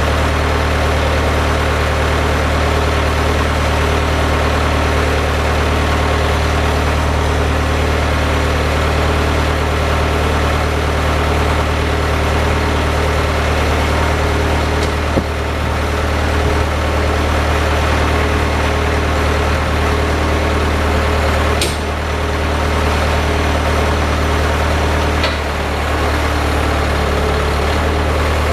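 Engine of a snow-plowing vehicle running steadily with a low, even drone, with a few brief clicks or knocks in the second half.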